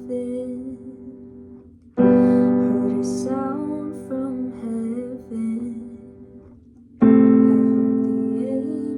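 Slow worship ballad on piano: sustained chords struck about two seconds in and again near the end, each fading away, with a woman singing softly over them.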